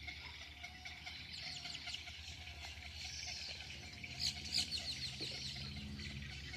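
Many birds chirping at once: a busy chorus of short, high chirps, loudest a little past halfway.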